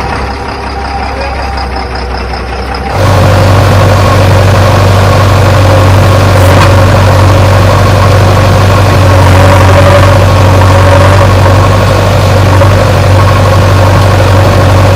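Heavy truck engine running steadily. It is quieter for the first three seconds, then jumps abruptly to a loud, even sound that holds unchanged.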